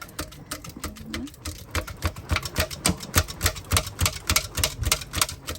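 A charcoal fire in a jerk pan being fanned hard by hand: a fast, fairly even clatter of sharp flaps, about six a second, as the fan drives air into the coals to get them to catch.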